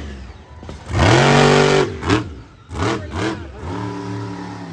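Monster truck's supercharged V8 engine revving: one long loud burst of throttle about a second in, then three short blips, settling to a steadier, lower run near the end.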